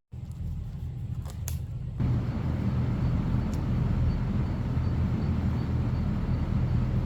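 An engine running steadily with a low hum, louder from about two seconds in.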